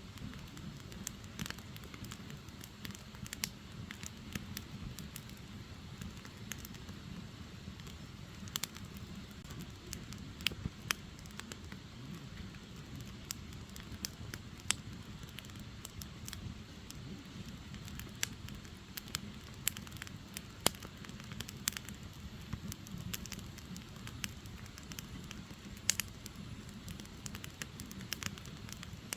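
Firewood burning, with many sharp crackles and pops scattered irregularly over a steady low rumble of the flames.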